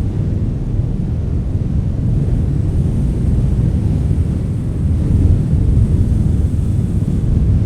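Strong wind blowing, a steady low rumble of gusts buffeting the microphone, swelling a little about five seconds in.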